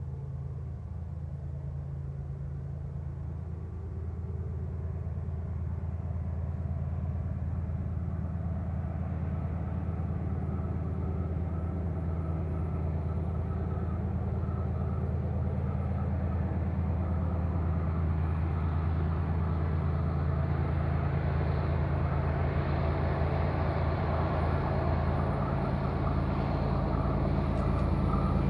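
A train approaching: its low engine drone grows steadily louder as it draws closer.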